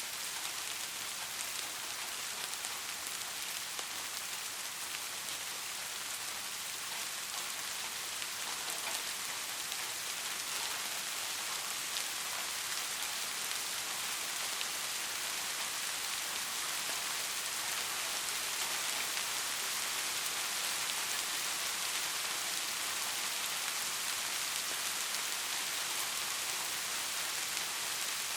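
Steady rain falling, an even hiss with scattered small drop ticks, swelling slightly over the stretch.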